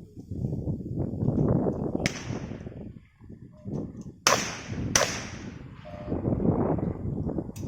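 Strong gusty wind buffeting the microphone, with sharp shotgun reports on the trap range: one about two seconds in, a quick pair less than a second apart a little after four seconds, and another near the end.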